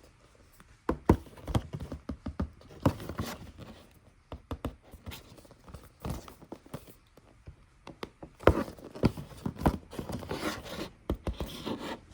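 A boxed 1:200 scale model airliner being handled and unpacked by hand: irregular knocks, clicks and scrapes of packaging, with the loudest knocks about a second in and about eight and a half seconds in.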